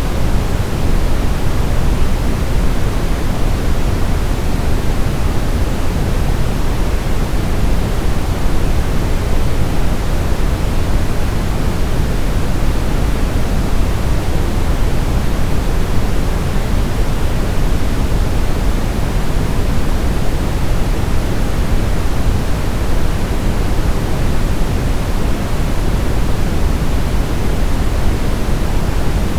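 Steady generated noise, a constant hiss that is heavier and deeper in the low end than in the highs (pink noise), with no changes.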